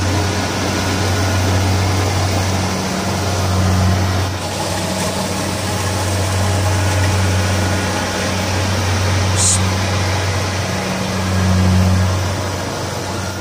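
An engine running steadily, a low hum that swells and eases every few seconds.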